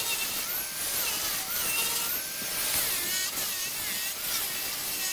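Wood being turned on a lathe: a steady hiss of the cutting tool taking shavings off the spinning workpiece, with wavering squealing tones that rise and fall as the cut goes on.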